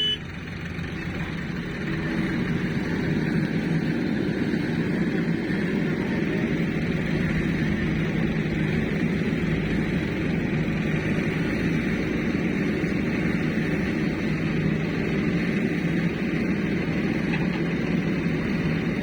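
Heavy diesel engine running steadily, growing louder about two seconds in.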